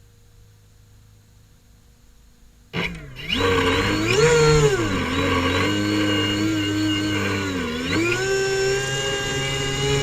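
Airboat engine starting up suddenly about three seconds in, then revving up and down before settling into a steady run.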